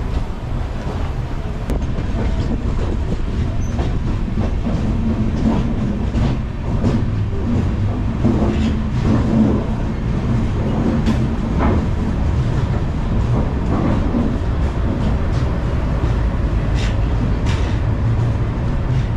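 Passenger train coach rolling along the rails, heard from its open door: a steady low rumble with scattered clicks and knocks from the wheels.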